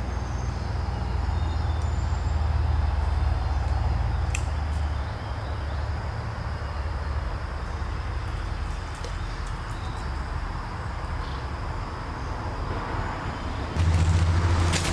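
Low rumble of road traffic that swells for a few seconds near the start and fades back, with a thin steady high whine underneath.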